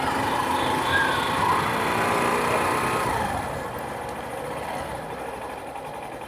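Motorbike engine running while riding; its note drops about halfway through and it grows quieter toward the end.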